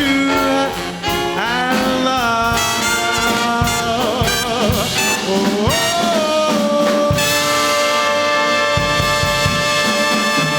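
Swing big band with trumpets and trombones playing the closing phrase of a jazz standard, with sliding brass figures. About seven seconds in, the band settles into a long held final chord with drum hits under it.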